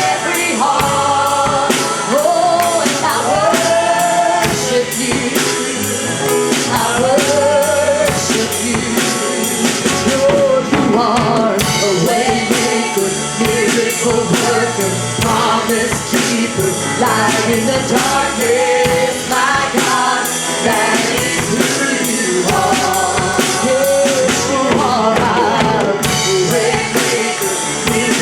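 Live church worship band with drum kit playing while a singer sings a gospel worship song, with wavering, held sung notes over a steady beat.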